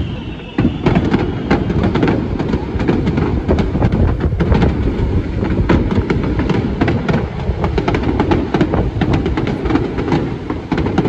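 A fireworks barrage: a dense run of bangs and crackles over a continuous low rumble. It grows louder about half a second in and carries on without pause.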